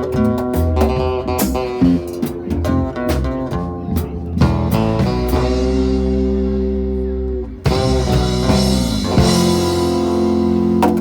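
Live band of guitars, bass and drums playing an instrumental ending. A picked guitar riff gives way to a held chord, then about two-thirds of the way through the band hits a final chord that rings out under cymbal wash.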